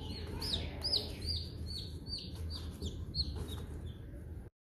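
A bird giving a rapid series of short, high chirps, about three a second, over a low steady hum. The sound cuts off abruptly near the end.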